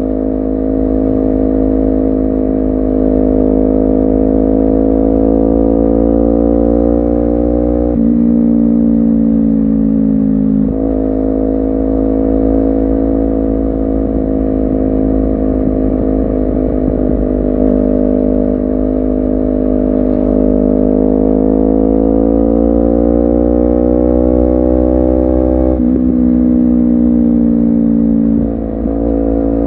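Honda CBR250RR's parallel-twin engine under way, its pitch climbing steadily as the bike accelerates, then dropping sharply at upshifts about 8 seconds in and again near the end. There is a change in pitch around 11 seconds and a brief easing of the throttle just before the close.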